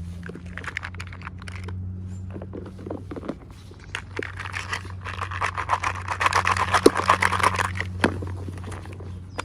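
Hands unboxing small toys: plastic packaging crinkling and scraping with scattered small clicks, thickest in a crinkly run about halfway through, over a steady low hum.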